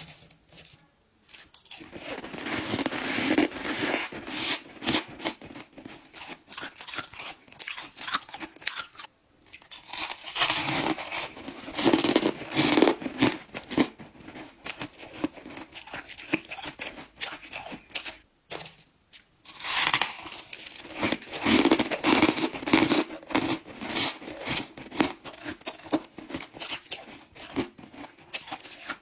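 Someone chewing crunchy ice close to the microphone. There are three bouts of loud crunching, starting about 2, 10 and 20 seconds in, each thinning out into rapid crisp crunches.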